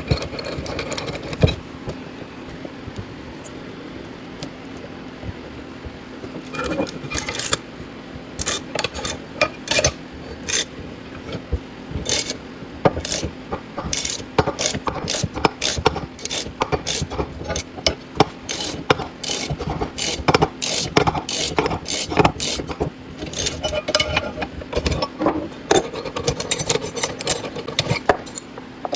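Hand tools clicking and clanking on metal, in quick irregular strokes, while a bearing splitter is worked to pull a wheel bearing's inner race off the hub. A steady low hum runs underneath.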